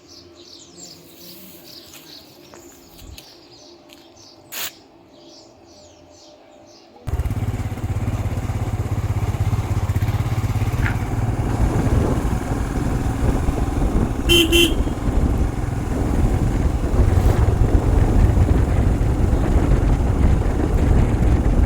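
Birds chirping in quiet surroundings, then a sudden cut to the loud, steady rumble of a motorcycle being ridden. A short horn toot sounds about halfway through.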